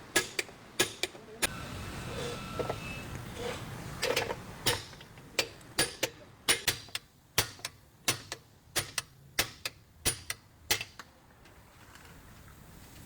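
Repeated sharp metal knocks from hand tools working on a car's axle beam bush, coming about three a second for several seconds in the middle, with a few scattered knocks near the start.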